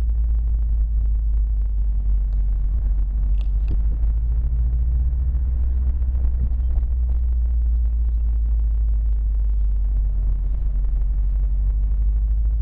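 Steady low rumble from a 2011 Subaru WRX sedan, the car whose weird noise is being recorded; a couple of faint ticks about three and a half seconds in.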